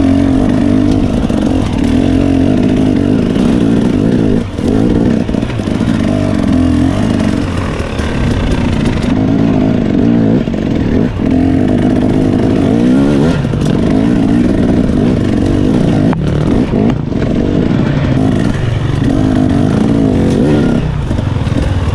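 Dirt bike engine running under changing throttle on a trail ride, its pitch rising and falling over and over, with a few brief drops in between.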